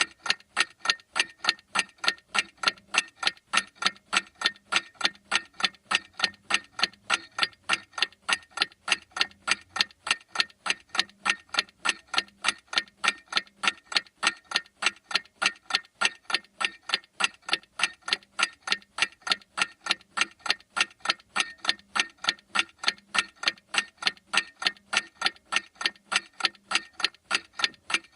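Clock ticking steadily, with sharp, evenly spaced ticks several times a second.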